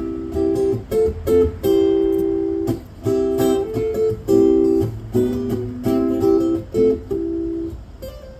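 Strummed acoustic string instrument playing an instrumental break between sung lines, chords changing every second or so with short gaps between them.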